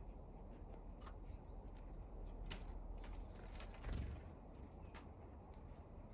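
Small birds at a window feeder tapping and pecking at seed, a scattering of sharp clicks at uneven intervals, with a brief low thump about four seconds in over a faint outdoor rumble.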